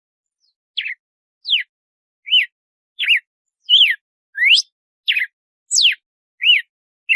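Red-cowled cardinal (galo-de-campina) singing its 'açoite' song: a string of about nine short, clear whistled notes, about one and a half a second, each sliding up, down or arching in pitch. The notes begin about a second in.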